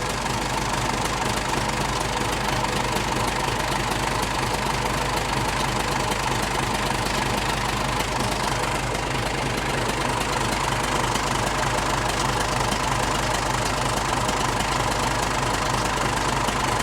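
Case 1840 skid steer's four-cylinder Cummins diesel running steadily at idle, with its hydrostatic drive bypass valves just closed.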